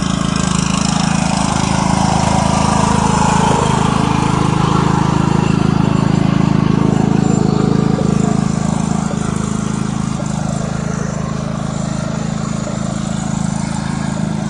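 Small tractor's engine running steadily at raised throttle while the tractor is driven, a little quieter from about nine seconds in.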